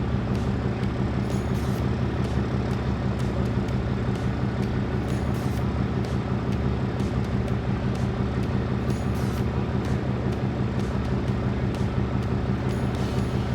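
A truck engine idling steadily, with a few faint light clicks over it.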